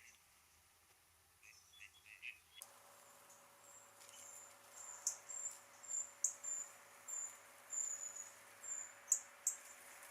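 A small bird calling faintly: a run of short, very high, thin notes, about two a second, after a few softer chirps and a sudden change in the background sound about two and a half seconds in.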